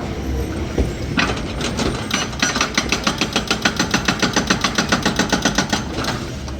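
Demolition machinery: an engine running, with rapid regular hammering at about six blows a second, typical of a hydraulic breaker pounding concrete. The hammering starts about two seconds in and stops shortly before the end.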